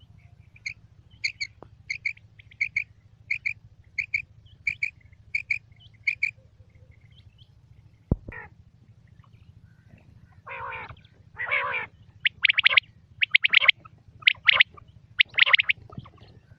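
Quail calling: a run of short, doubled high notes, one pair about every two-thirds of a second for the first six seconds. After a sharp click near eight seconds, louder, harsher calls follow in quick succession from about ten to sixteen seconds.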